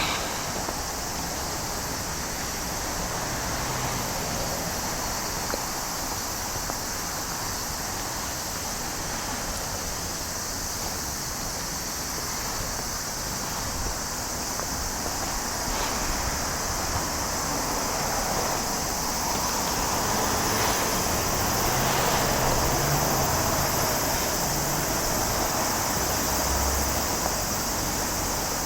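Steady outdoor background noise: a continuous high-pitched hiss over a low rumble, the rumble growing louder about two-thirds of the way in.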